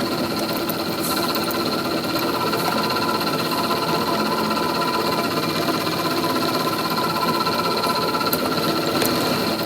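Metalworking machinery running steadily, with several high whining tones over a fast mechanical rattle, and a sharp click near the end.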